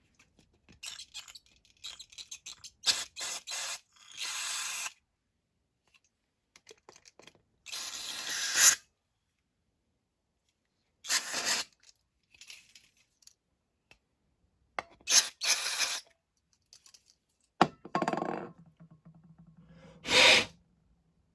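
Workshop handling noises: repeated short scrapes, clicks and rattles of hand tools and small metal parts being worked on, in separate bursts with gaps between. Near the end a low steady hum runs for about two seconds.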